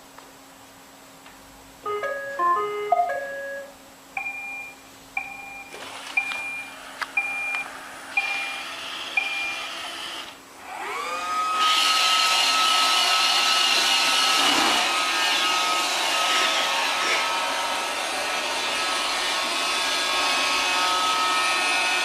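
Robot vacuum cleaner: a short tune of electronic tones, then pairs of beeps about once a second, then about ten seconds in its motor whines up and runs with a steady loud whir.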